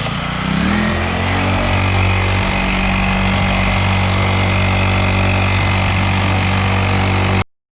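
Small kid's dirt bike engine revving up as the bike pulls away, then running at a steady, higher speed. The sound cuts off abruptly near the end.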